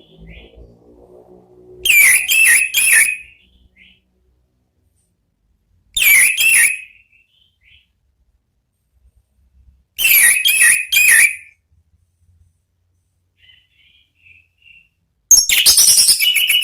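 Orange-headed thrush singing: four short phrases, each a second or so of quick, loud notes, spaced about four seconds apart.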